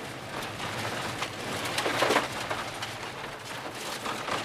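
Ford Ka rally car heard from inside the cabin through a hairpin: engine and road noise with a patter of small clicks and rattles, and a brief engine note that rises and falls about two seconds in.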